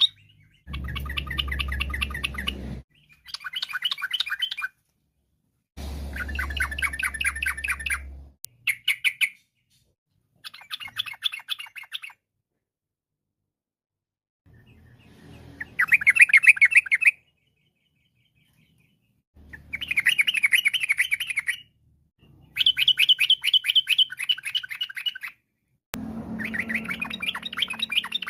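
Yellow-vented bulbul (trucukan) singing in short bursts of rapid chattering notes. Each phrase lasts one to two seconds and is followed by a brief pause.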